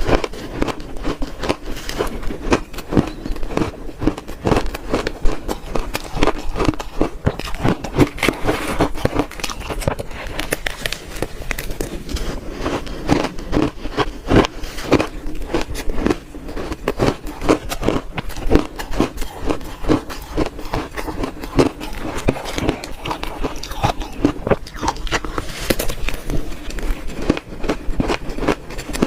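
Close-miked crunching of frozen red shaved ice being bitten and chewed by the spoonful, a dense, unbroken run of sharp cracks and crunches.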